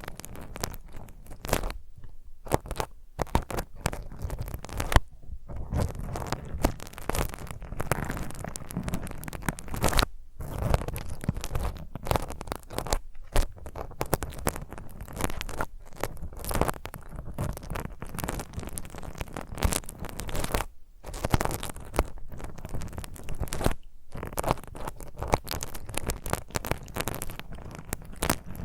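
Fingernails scratching and rubbing a scouring pad in quick, rough strokes, with brief pauses between runs.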